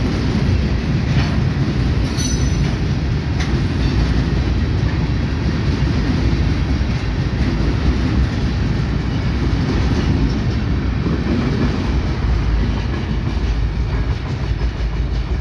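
Freight train cars rolling past close by: a steady, loud, heavy rumble with occasional wheel clicks and a brief high wheel squeal about two seconds in.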